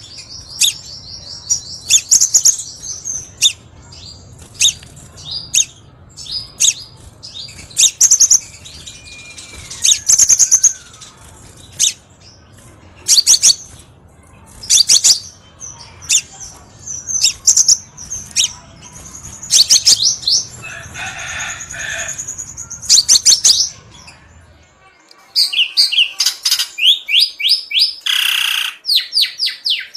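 Crimson sunbird singing: sharp, high chirps and rapid trills in quick runs. A low background hum stops abruptly about 25 seconds in, as if at an edit.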